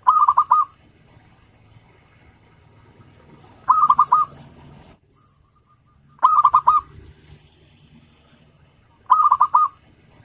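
Zebra dove (perkutut) cooing: four short phrases a few seconds apart, each a quick run of about four notes.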